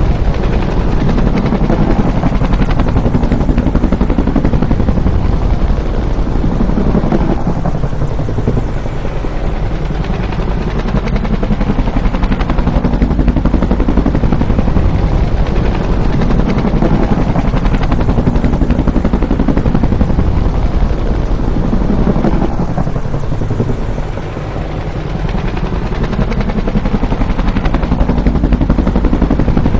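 Bell UH-1 Huey helicopter's rotor chop and turbine, loud and continuous, with the rapid blade beat running throughout; it eases off briefly twice, most clearly about three-quarters of the way through.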